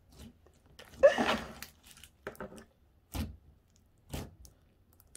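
Hands squishing and pressing a moist, gooey ooze-type slime, giving a few separate sticky squelches and small pops, the loudest about a second in.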